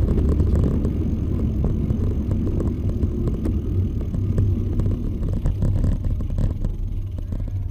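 Wind buffeting the microphone of a camera on a moving bicycle, a heavy low rumble with irregular knocks and rattles from the ride.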